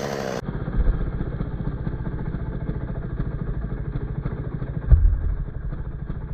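A small engine idling with a rapid low rattle, and a low thump about five seconds in.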